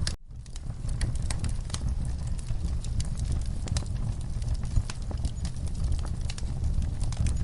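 Wood fire burning in a fireplace: logs crackling with irregular sharp pops and snaps over a steady low rumble of the flames. The sound cuts out for a split second at the very start.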